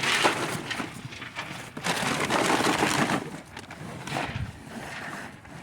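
Cattle at the feed, eating cake: bursts of crunching and rustling noise, strongest at the start and again about two seconds in, then quieter.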